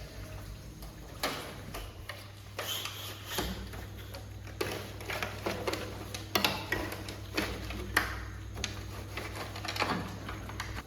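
Irregular light clicks and knocks, about one or two a second, over a faint steady low hum.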